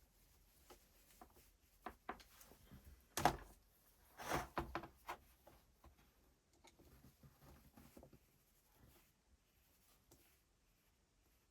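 Light, scattered clicks and knocks of small parts and tools being handled, the loudest a sharp knock a little over three seconds in and a short cluster of knocks about a second later.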